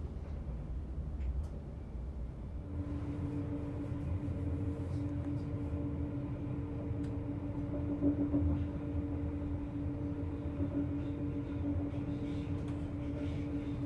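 Interior of an SOB Traverso RABe 526 electric multiple unit running, with a steady low rumble. About three seconds in, a steady hum joins, with a fainter tone pulsing about once a second above it.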